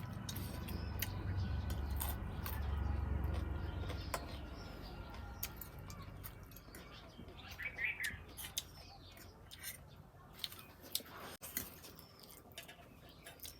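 Eating noises at a meal: scattered sharp clicks and taps of utensils. A low rumble runs through the first four seconds, and a bird chirps about eight seconds in.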